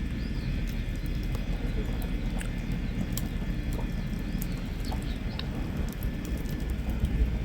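Wood campfire crackling with scattered small pops, with a few faint bird chirps over a steady low rumble.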